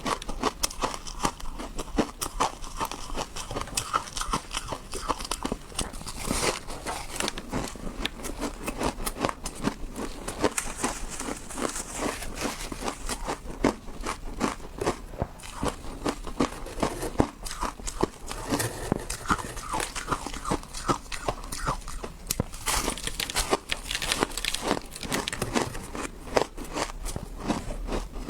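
Ice being bitten and chewed, a dense, continuous run of crisp cracks and crunches.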